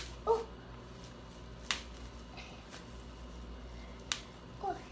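Plastic bubble wrap bubbles squeezed between a child's fingers and popping one at a time: three sharp single pops, at the start, near two seconds in and about four seconds in.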